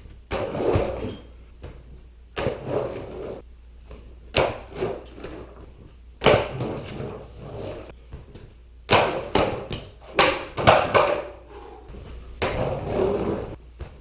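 Skateboard clattering again and again on a hard floor: the board slaps and knocks down, with wheels rolling in between, as a beginner jumps onto it and falls off. The knocks come every second or two and bunch together near the end.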